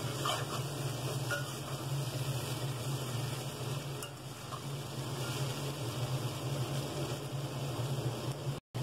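Diced potatoes frying in oil in a pan on a low flame: a steady sizzle, with a spatula stirring and scraping now and then. A low hum runs underneath, and the sound cuts out for a moment near the end.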